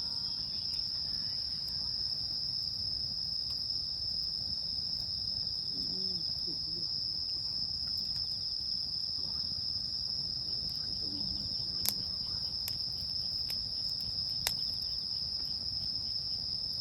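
Crickets chirring in a steady, unbroken high trill, with a few sharp crackles and pops from a wood campfire, the loudest about 12 and 14½ seconds in.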